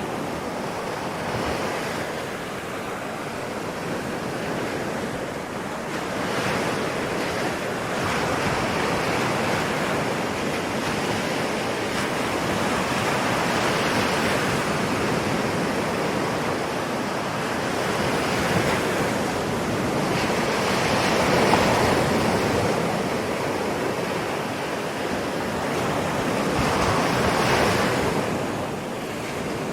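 Ocean waves breaking and washing on the shore, a steady rush that swells and eases with each wave every few seconds.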